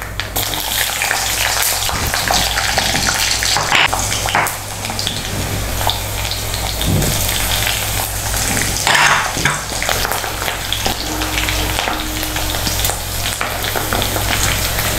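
Garlic sizzling and crackling in hot coconut oil with mustard and fenugreek seeds in a black iron kadai, with a few louder crackles about four and nine seconds in.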